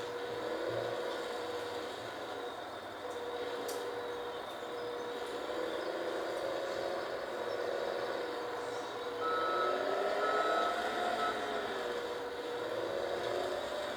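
Heavy work machine running, its engine pitch rising and falling as it works, with a steady tone that breaks off now and then. A back-up alarm beeps three times near the middle.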